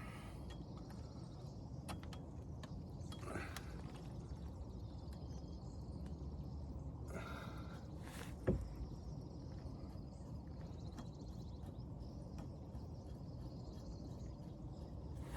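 Faint scrapes and clinks of hand work on a brake caliper and its mounting bolts, over a steady low background hum, with one sharp metallic knock about 8.5 seconds in.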